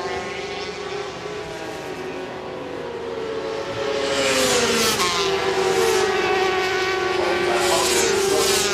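A pack of 400cc supersport racing motorcycles at high revs, several engine notes overlapping and rising and falling through gear changes. The sound gets louder about four seconds in as the bikes come close.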